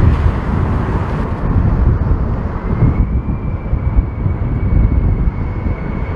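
Boeing 747 jet engines on approach, with a steady high whine coming in about three seconds in, over a loud, gusty rumble of strong wind buffeting the microphone.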